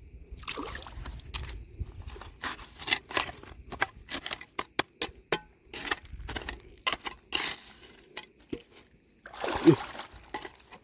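Stones and gravel clicking and knocking in quick, irregular strikes as a riverbed is dug by hand, with water sloshing and trickling. A longer, louder scrape comes near the end.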